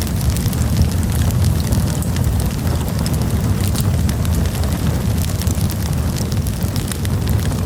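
Wood campfire burning, with a steady low rumble under frequent small, sharp crackles and pops.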